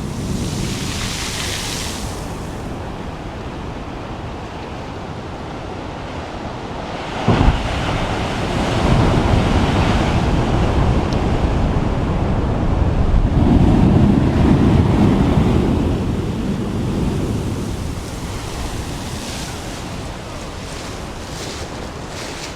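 Sea waves surging and washing against a rocky shore, with wind buffeting the microphone. There is a sudden thump about seven seconds in, and a louder, longer surge a little past the middle.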